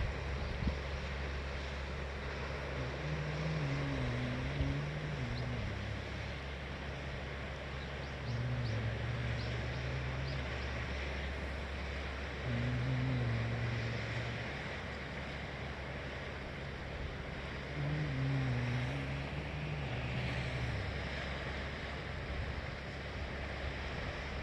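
Steady rush of sea surf and wind over a cliff-top, with a low drone that wavers in pitch and swells several times.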